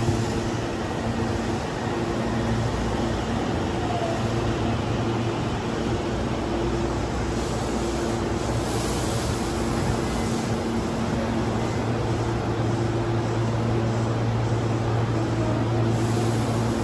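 Meitetsu electric train running into the platform and coming to a stop, with a continuous rumble. It then stands with a steady low hum from its on-board equipment, which grows stronger near the end.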